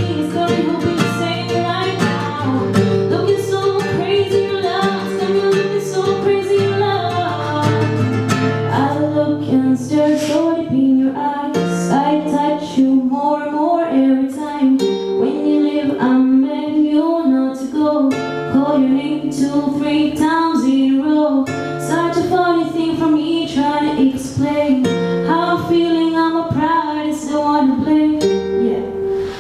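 A woman singing with acoustic guitar accompaniment in a live performance.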